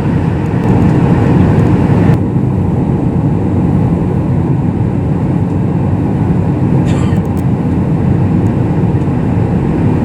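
Steady cabin noise of a Boeing 737 MAX 8 airliner: a loud, even rumble with hiss above it. The higher hiss drops away suddenly about two seconds in, leaving the low rumble.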